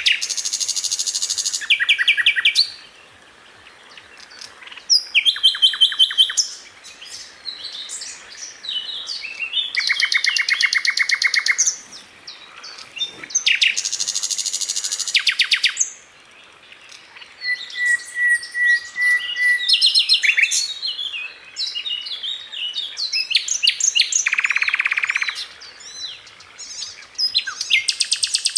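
Sikatan londo flycatcher singing: a run of fast, high-pitched trills, each a second or two long, broken up by quick jumbled chirps and short pauses.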